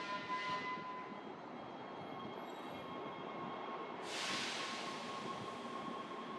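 A train running, with a steady rumble and thin, high whining tones, and a burst of hiss about four seconds in.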